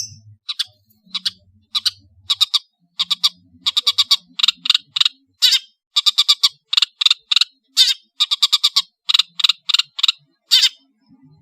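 Long-tailed shrike singing a fast chattering run of short, sharp notes, given in quick clusters of two to four with brief gaps between them.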